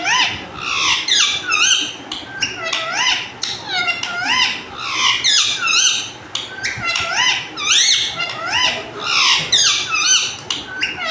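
Parrot giving a continuous run of high squeaky chirps, two or three a second, each note swooping up and down in pitch.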